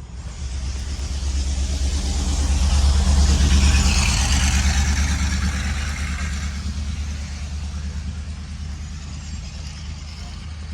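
A motor vehicle's engine with a deep steady rumble, growing louder to a peak about three to four seconds in, then slowly fading as it moves off.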